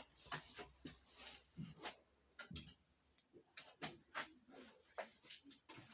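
Faint, irregular clicks and small knocks of hard items being handled and sorted.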